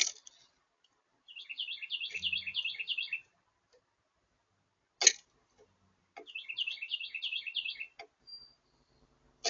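Northern cardinal singing two phrases of quickly repeated downslurred notes, about four to five a second. Three sharp clicks cut in: at the start, about five seconds in, and at the end.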